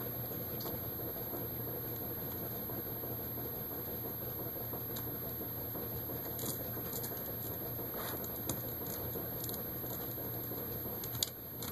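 Steady background hum and hiss, with scattered light clicks from about halfway on. The clicks are a small screw and screwdriver being worked against the laptop's screen assembly, where a screw with a stripped thread won't go in.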